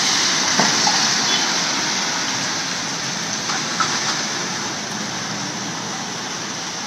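Heavy rain falling on a flooded road: a steady hiss that grows slightly quieter, with a few faint ticks.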